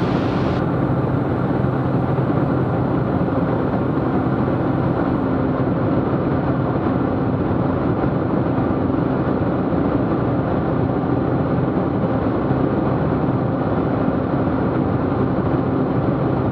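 Steady drone of a Cessna T210's engine and propeller heard inside the cabin, an even low hum.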